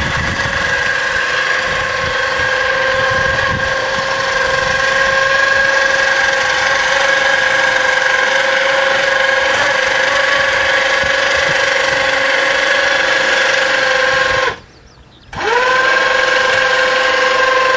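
Electric motor running with a steady whine. It cuts out about fifteen seconds in and restarts less than a second later, spinning back up to the same pitch.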